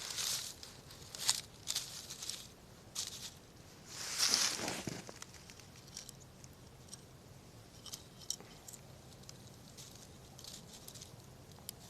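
Campfire burning, wood crackling with scattered sharp pops and snaps, and a longer burst of crackling about four seconds in.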